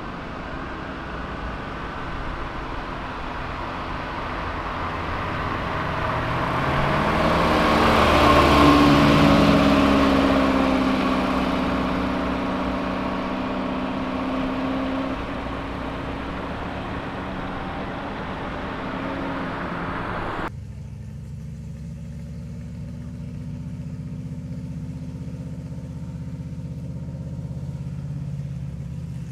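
Car engines as cars drive off: one car accelerates past, its engine pitch rising and at its loudest about a third of the way in, then steady. Near the two-thirds mark the sound switches abruptly to a steady, lower engine running.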